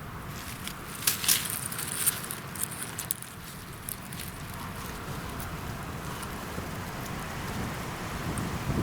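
Wind buffeting the microphone, a steady rushing noise with a low rumble that grows stronger in the second half. About a second in comes a short run of sharp crackling snaps.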